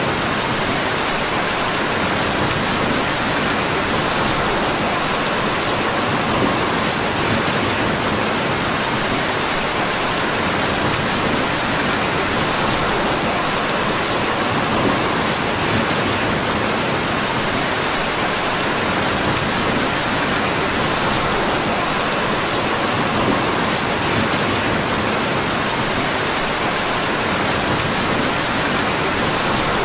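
Steady rain falling, an even hiss that never lets up, with a few faint scattered ticks.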